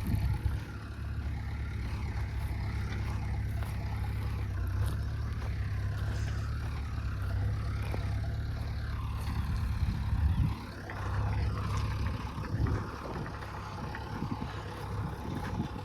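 Diesel engine of a Hyundai long-reach excavator running steadily, with a brief drop in level about ten seconds in and a higher tone rising and falling around the middle.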